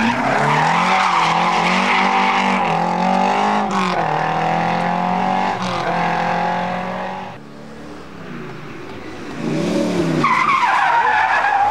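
Rally car engine held at high revs for several seconds with a brief break in pitch about four seconds in, then falling away about seven seconds in; an engine revs up again with rising and falling pitch near the end.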